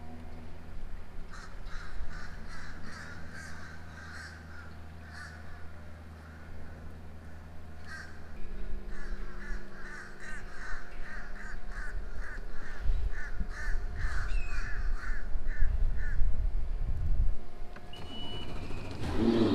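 Birds calling in quick runs of repeated calls, over the low steady hum of a boat's outboard motor idling; the low hum turns rougher about eight seconds in as the boat moves off.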